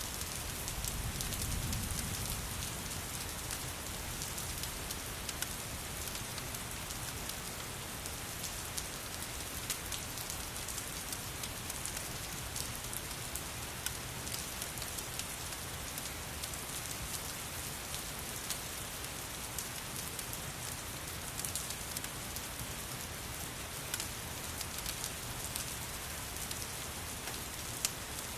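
Steady rain with a crackling wood fire: an even hiss of rainfall over many small, sharp crackles and pops. A brief low rumble about a second or two in.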